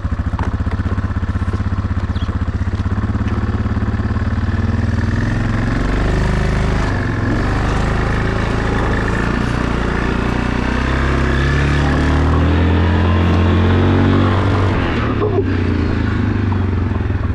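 A small vehicle engine idling, then revving and running with changing pitch from about five seconds in, loudest shortly before the end.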